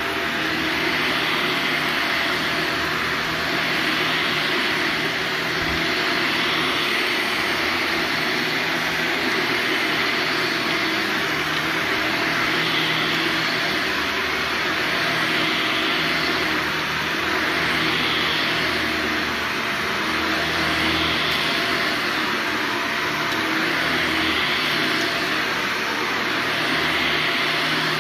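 Carpet-cleaning extraction machine running steadily, a loud rush of suction that swells and eases every few seconds as the wand is worked over the carpet.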